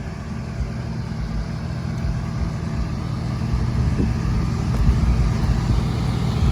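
Truck engine running steadily, a low even hum that slowly gets louder.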